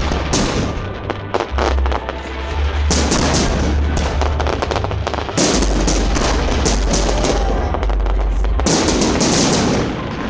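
Fireworks bursting in rapid, dense volleys of bangs and crackles, with loud music playing along. The barrage eases just before the end.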